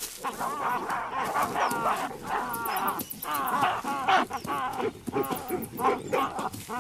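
Olive baboons screaming and barking in rapid, overlapping calls during a fight for dominance between two males.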